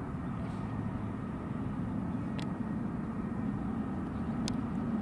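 Wind buffeting the microphone: a steady, flickering low rumble, with two faint clicks about two and a half and four and a half seconds in.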